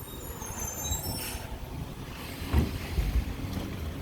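Garbage truck engine running as the truck moves along the street, with two low thumps about two and a half and three seconds in.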